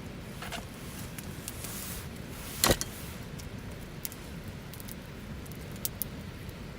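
Wood campfire burning with a steady low rush and scattered crackles, one sharp loud pop a little under three seconds in.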